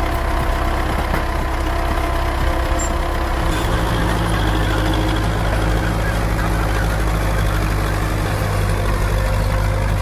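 Tractor engine running steadily under heavy load while pulling a weight uphill. About three and a half seconds in, its low engine note becomes stronger and holds.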